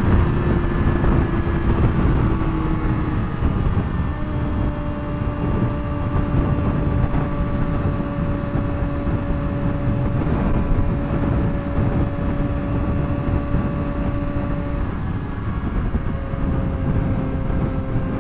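2007 Suzuki GSX-R600's inline-four engine through a straight-pipe exhaust, cruising at a steady highway speed with an even engine note. Heavy wind rush on the microphone runs under it.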